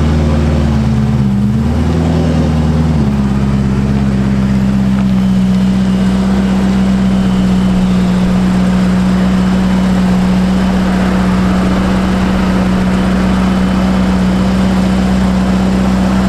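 Ferrari F8 Tributo's twin-turbo V8 with a catless Ryft exhaust and DME tune, running at steady revs. The note wavers slightly at first, then drops about three seconds in to a lower, even pitch that holds steadily.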